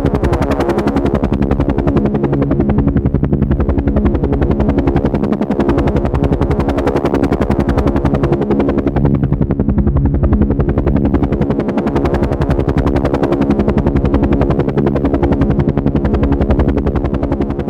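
Helicopter running steadily: a fast, even rotor beat over a steady engine drone.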